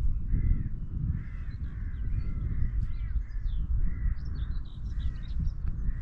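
Crows cawing over and over, with smaller birds chirping higher up, under a loud uneven rumble of wind buffeting the microphone.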